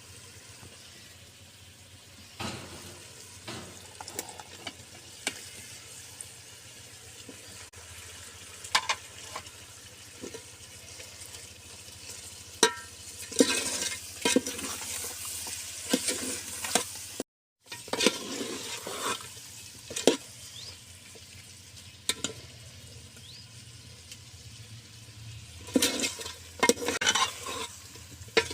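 Chicken frying in a pot with onions and garlic, sizzling, while a spoon stirs and scrapes against the pot in clusters of sharp strokes a little before halfway and again near the end. The sound cuts out for a moment a little past halfway.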